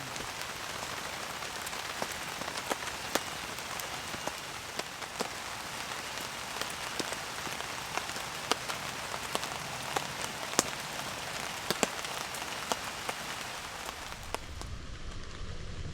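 Steady rain falling, an even hiss with many separate sharp drop hits close by.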